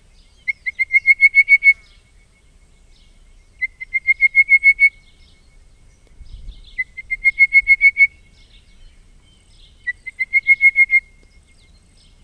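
Power's rain frog calling: five trilled calls, each about a second of rapid pulsed notes rising slightly in pitch, repeated roughly every three seconds, with faint other calls in between.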